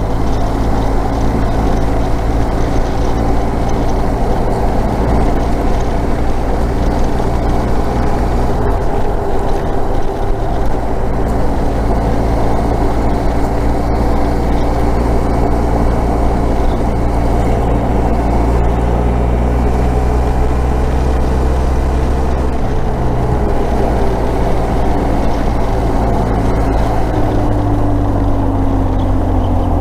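Motorcycle engine running at road speed while riding, its note shifting a few times as the speed changes, with steady road and air noise underneath.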